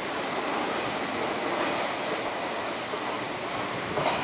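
Electric commuter train running into the station along the far platform: a steady rush of wheels on rail, with a short sharp noise near the end.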